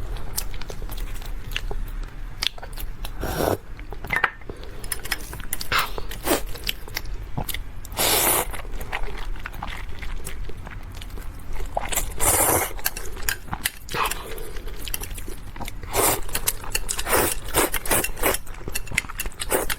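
Close-miked eating: irregular bites and chewing, with a few longer, louder bursts about 3, 8 and 12 seconds in.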